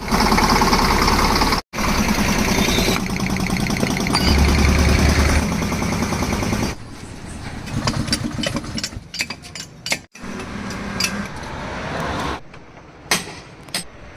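Tractor engine running with a fast even beat, heard over several abrupt cuts. It then drops to a quieter stretch with scattered sharp knocks and clanks.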